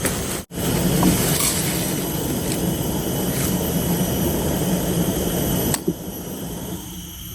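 Heavy rain falling, a steady hiss. It cuts out abruptly for an instant about half a second in, and after a click near the end it goes on more quietly.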